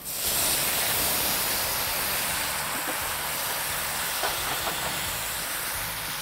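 Chunks of marinated pork neck and pineapple dropped into hot oil in a cast-iron wok over charcoal, sizzling hard at once and staying a steady sizzle. A few light scrapes of a metal spatula about four and a half seconds in.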